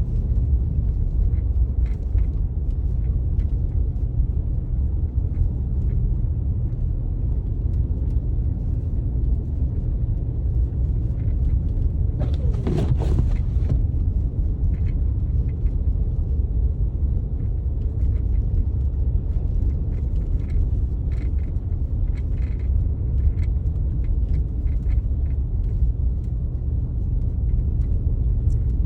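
Snowstorm wind blowing hard across the microphone: a steady low rumble, with a brief louder, higher rush about halfway through.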